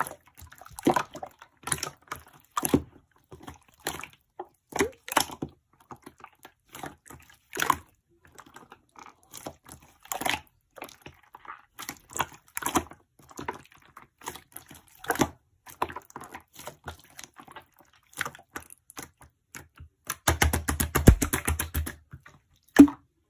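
Slime being handled: scattered wet, sticky clicks and squelching pops. Near the end comes a fast run of crackling clicks, then one sharp pop.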